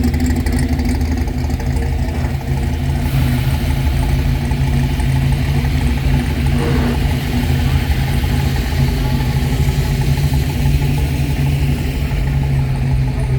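High-horsepower car engine idling, a loud steady low rumble with a rough, uneven beat.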